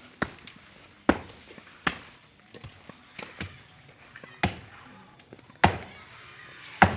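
A series of sharp, heavy strikes, six in seven seconds, irregularly spaced with a short ring after each.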